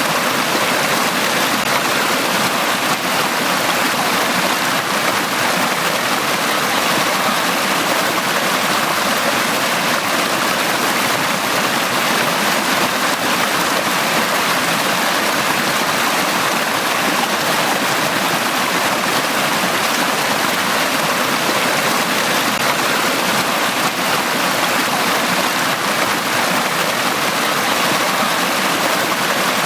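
A stream running steadily over rocks: an even, unbroken rush of water.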